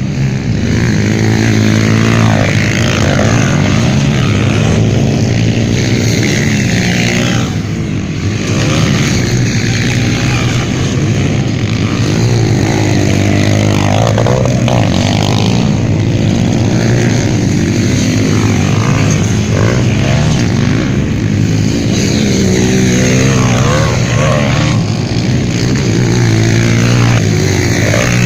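Several motocross motorcycles racing, their engines revving up and down continuously. The pitch swells and falls every few seconds as bikes pass by.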